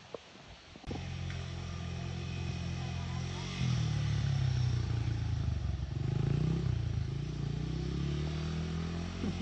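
Dirt bike engine running, coming in suddenly about a second in, then revving up and easing off a couple of times.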